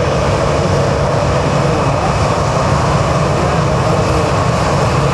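Jet airliner's engines running: a loud, steady noise with a constant low hum underneath.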